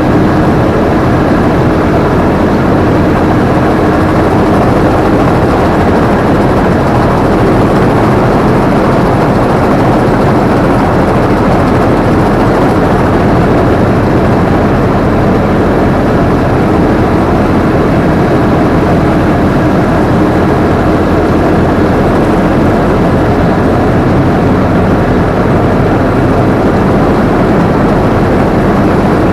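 Combine harvester's diesel engine and threshing machinery running steadily at working speed, a loud, even mechanical din heard from the operator's seat.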